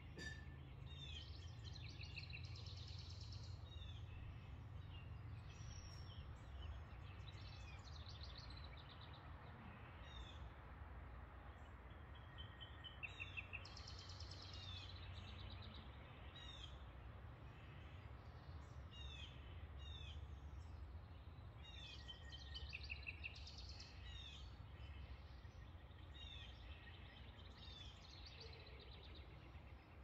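Faint songbird chirps and song phrases, over a low steady background rumble.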